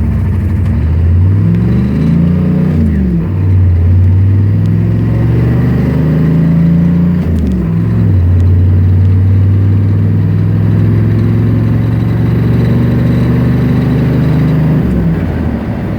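1993 GMC K3500's 6.5-litre turbo-diesel V8, heavily loaded, accelerating hard from a standstill through a manual five-speed. The revs climb and fall back at upshifts about three and about seven and a half seconds in, then hold through a long pull in the higher gear before dropping near the end.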